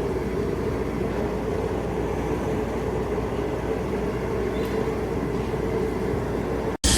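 DEWALT DCS334 20V cordless brushless jig saw running steadily under its trigger. Near the end it cuts out for an instant, then starts again louder and higher.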